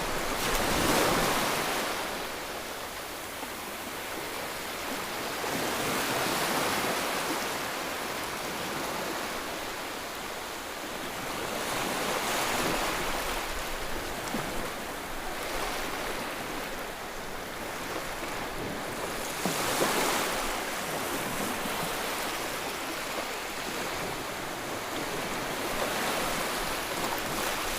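Continuous rushing white noise for soothing a baby, swelling and easing every six seconds or so, like surf.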